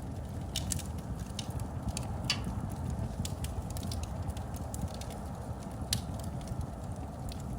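Wood fire burning in a fireplace: a steady low rumble with irregular sharp crackles and pops, several to a second, a louder pop about two and a half seconds in and another about six seconds in.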